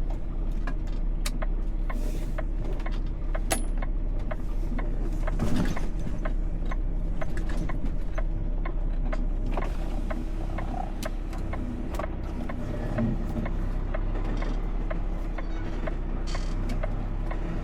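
Semi-truck engine running, heard from inside the cab as a steady low hum, with scattered light clicks and rattles.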